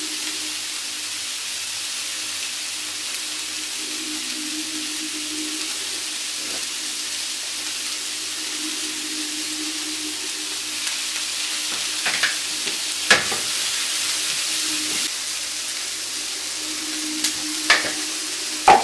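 Onions, chilies, red pepper and cherry tomatoes sizzling steadily in olive oil in a grill pan, over a steady low hum. A few sharp clicks come in the second half.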